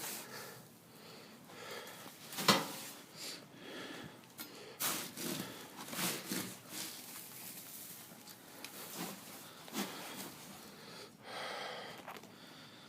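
Horses snorting and breathing while hay is handled, with a sharp knock about two and a half seconds in.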